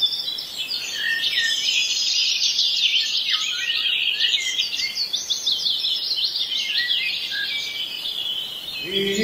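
Many small birds chirping and singing together in a dense chorus of rapid, repeated high notes. Near the end, music with low sustained tones comes in under them.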